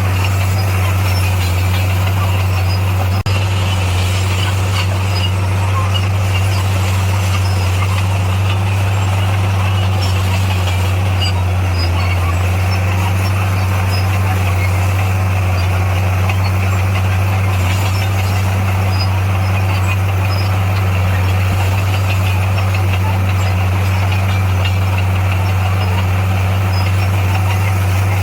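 Motor grader's diesel engine running at a steady speed, a constant low hum that doesn't rise or fall.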